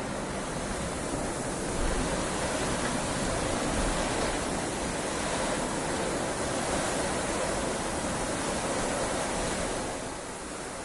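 Heavy rain falling steadily, a dense even hiss that swells a little about two seconds in and eases slightly near the end.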